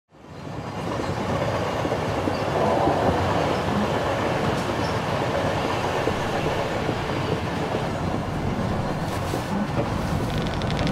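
Moving train carriage running along the track: a steady rumble with rattling. It fades in over the first second.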